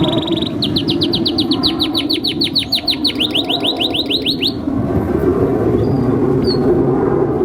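Domestic canary singing a fast trill of about seven repeated rising whistled notes a second. It stops after about four seconds, leaving a steady low hiss with a couple of faint chirps.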